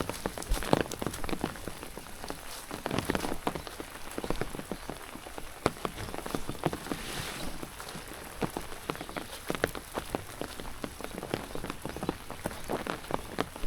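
Rain falling, with many irregular sharp drip taps over a steady rain hiss.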